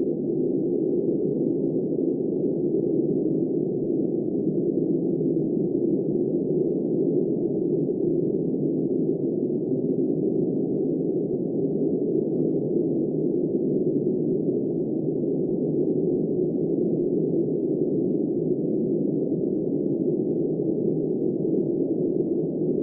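Steady, muffled rush of blizzard wind: a constant low noise with no gusts, breaks or separate events.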